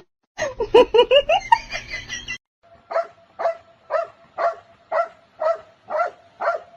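A dog yipping in a quick run of short, rising yelps. Then, after a brief break, a dog barks steadily at an even pace of about two barks a second.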